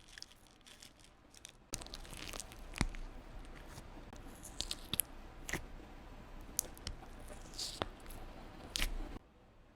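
Slime being squished, pressed and stretched by hand: a run of wet crackling and squelching with sharp pops here and there, starting about two seconds in and stopping abruptly near the end.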